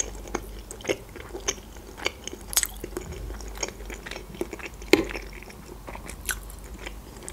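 Close-miked chewing of boiled pelmeni dumplings: soft, wet mouth clicks and smacks at irregular intervals.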